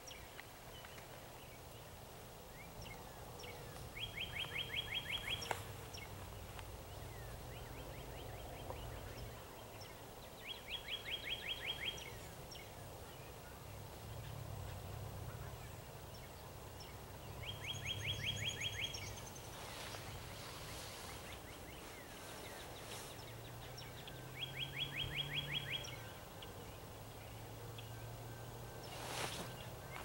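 A bird singing a short, fast trill of about ten notes in a second and a half, repeated four times every six to seven seconds, over a faint low hum.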